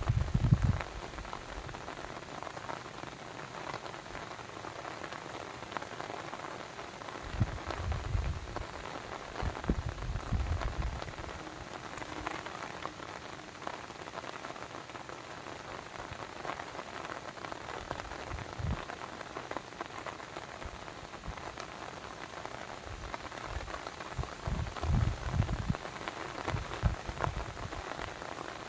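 Steady rain falling and pattering on surfaces, with a few brief low rumbles.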